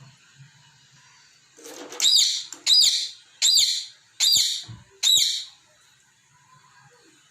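Pet parrot giving a run of five shrill chirps, about one every three-quarters of a second, starting about two seconds in and stopping about five seconds in.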